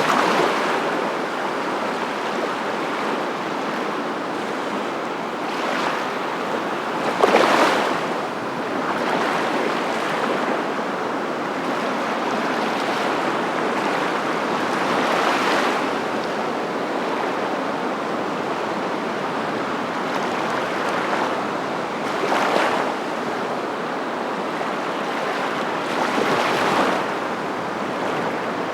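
Ocean surf: a steady rush of water noise, swelling as a wave breaks every several seconds.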